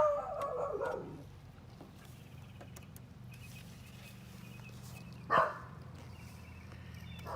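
A dog barking: a drawn-out bark that falls in pitch at the start, a single sharp bark about five seconds in, and a fainter one at the end, over a steady low hum.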